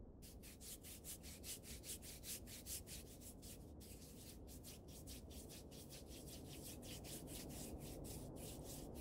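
Hands briskly rubbing another person's cold hands to warm them, skin on skin, in quick even strokes about four a second over a low steady rumble.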